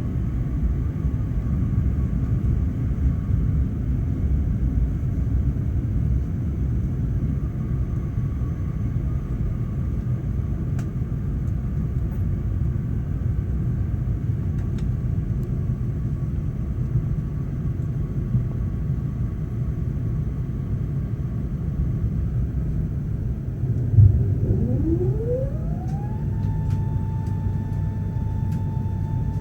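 Steady low rumble of an Airbus A380-861 cabin on the ground. About 24 seconds in comes a thump, then a whine that rises quickly and settles into a steady high tone: one of the aircraft's Engine Alliance GP7270 engines beginning to spool up during engine start.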